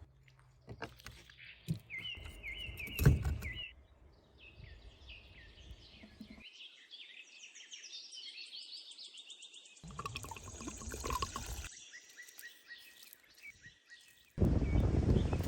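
Small birds chirping in short repeated calls, broken by a few knocks and some handling noise from outdoor cooking work. A louder rough, rushing noise starts near the end.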